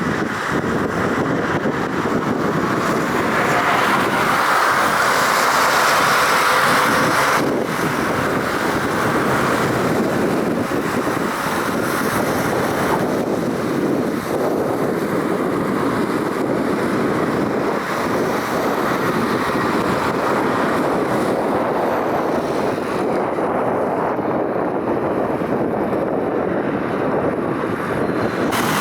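Airbus A330-200 jet airliner on a wet runway: a steady rushing roar of jet engines and water spray, with wind on the microphone. The brighter hiss drops off abruptly about seven seconds in.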